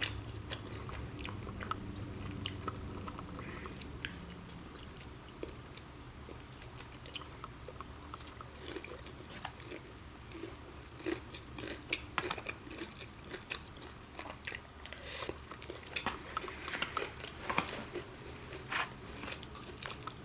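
A person eating close to the microphone: chewing and biting with short crunchy clicks, which come more often and louder in the second half.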